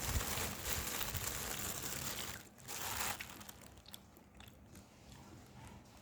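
A person biting and chewing sausage close to the microphone, with dense crunching for the first two seconds and another short crunch about three seconds in, then quieter chewing with small wet clicks.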